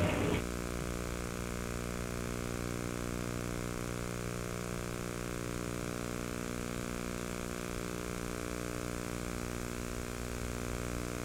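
A steady buzzing hum with many overtones, unchanging in pitch and level. It starts abruptly about half a second in, when a louder noisy sound cuts off.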